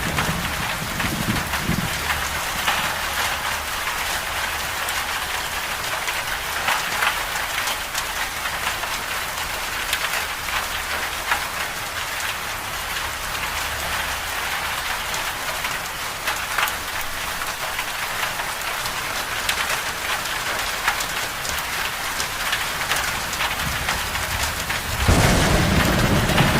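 Steady rain falling on a hard surface, an even hiss with scattered drop ticks. A low rumble of thunder dies away in the first couple of seconds, and another thunder rumble breaks in loudly near the end.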